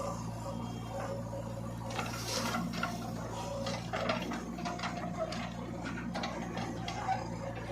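Diesel engine of a JCB 3DX backhoe loader running steadily, with a run of clanks and scrapes from the bucket and soil in the middle stretch.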